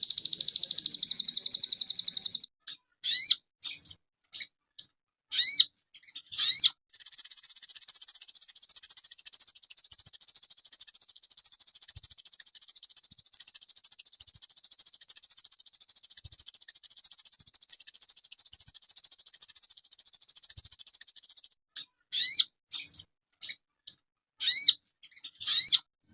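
A sogon bird singing at a high pitch. A dense rapid trill breaks, about two and a half seconds in, into separate sharp sweeping notes. Then comes a long unbroken chattering trill of about fifteen seconds, and near the end scattered sweeping notes again.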